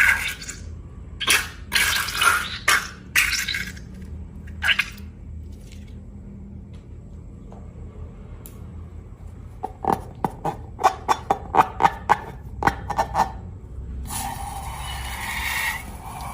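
Wet, sticky clicks and pops of slime being handled: a few scattered ones at first, then a quick run of about fifteen near the middle, followed by a brief wet rushing noise near the end.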